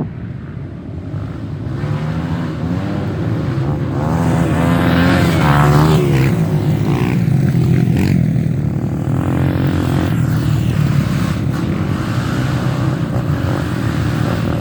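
Off-road trail motorcycle engines revving, the pitch rising and falling with the throttle and growing louder over the first few seconds.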